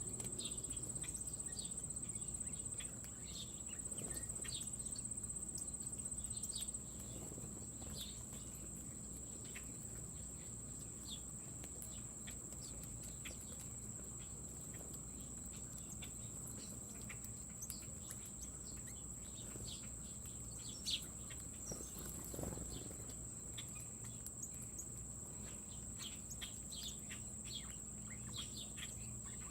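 Insects trilling in one steady, high-pitched drone that drops in level about seven seconds in. Short bird chirps are scattered over it.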